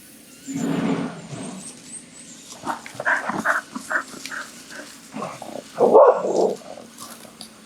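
Terrier barking and growling in several short, uneven bursts, loudest about six seconds in.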